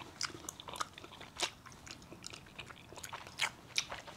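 Close-up eating sounds: a person chewing and biting chocolate, with irregular small crunchy clicks, a few of them louder.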